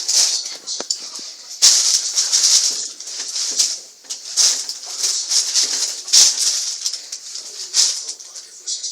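Irregular bursts of rustling and scuffling as a kitten and a dog play-wrestle, some ten bursts, each lasting under a second.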